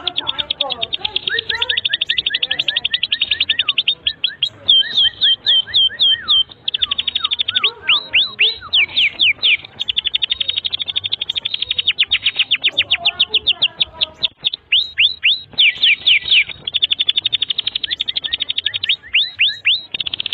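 Domestic canary singing a long, fast song: very rapid trills that switch every second or two to runs of swooping, sliding notes, with only short breaks between phrases.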